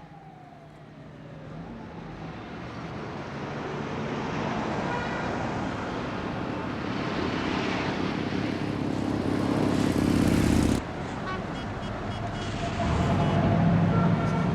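Harley-Davidson XLCR motorcycle running through city traffic, with engine and road noise growing steadily louder. The sound cuts off suddenly about eleven seconds in, and the engine note comes back strongly near the end.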